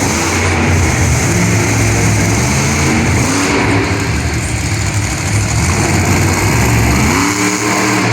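Monster truck engine running loud and revving, its pitch rising and falling, with several quick rising sweeps of throttle near the end.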